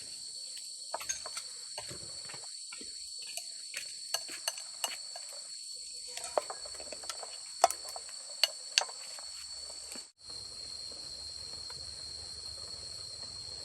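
Crickets or other insects chirring steadily in a high, even drone. Over the first nine seconds or so come scattered sharp clicks and taps, the loudest three close together about three quarters of the way through.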